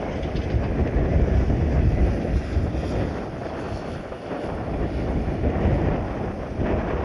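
Strong gusty wind buffeting the microphone: a heavy low rumble that swells and fades with the gusts.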